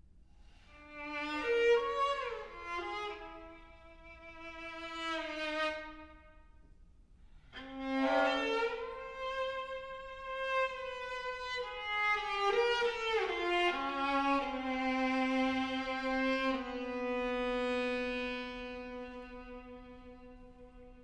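Solo viola playing slow, sliding phrases, then settling on a long held low note that slowly fades away.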